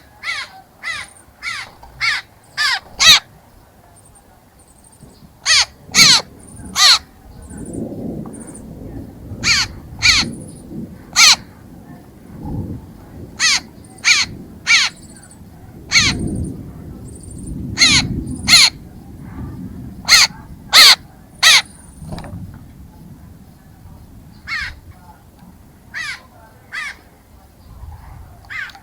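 A bird giving loud, harsh, short calls, repeated in quick runs of several with pauses between runs. A softer low rushing noise swells and fades underneath.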